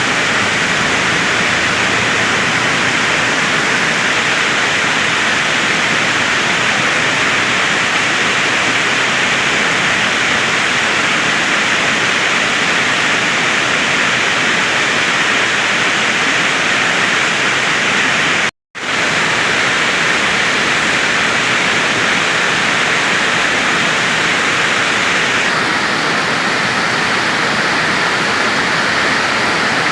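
Heavy tropical downpour: a loud, steady hiss of rain, cut by a split-second dropout to silence about two-thirds of the way through.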